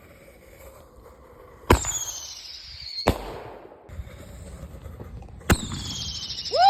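Whistling buster fireworks going off: three sharp bangs, the first and last each followed by a high whistle that falls in pitch over about a second.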